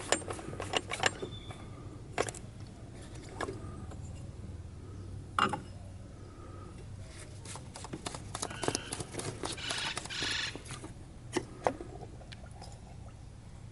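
Scattered clicks, knocks and clinks of hand tools and parts being handled during work on a car, with a denser run of quick clicks near the end, over a steady low hum.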